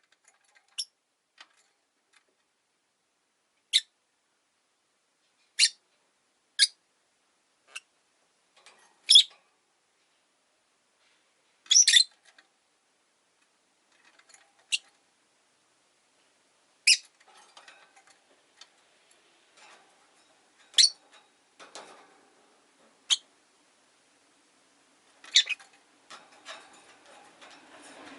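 Rosy-faced lovebirds giving short, sharp, high-pitched chirps, single calls spaced a second to a few seconds apart, about a dozen in all.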